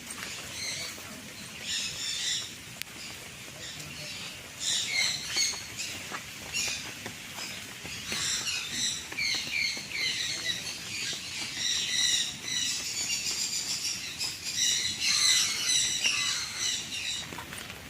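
A flock of birds chirping and calling in overlapping bursts of quick, high notes, busiest in the second half.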